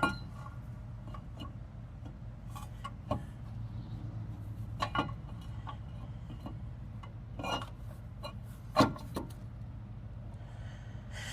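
Scattered knocks and clinks of metal parts and tools being handled and moved about during brake and hub reassembly, over a steady low hum. The sharpest knocks come right at the start and about nine seconds in.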